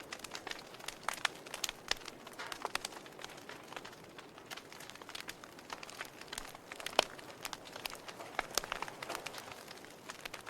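Wood fire in a fireplace crackling, with irregular sharp pops and snaps over a soft hiss; one louder pop about two-thirds of the way through.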